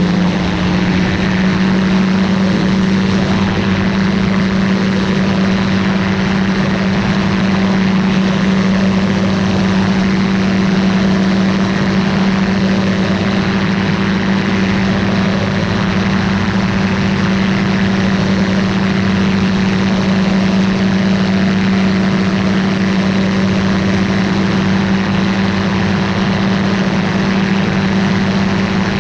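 Ultralight aircraft's piston engine and propeller running at steady power, one constant droning note with no changes in speed.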